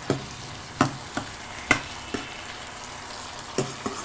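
Food frying in a pan with a steady sizzle, while a spatula knocks and scrapes against the pan about seven times as it is stirred.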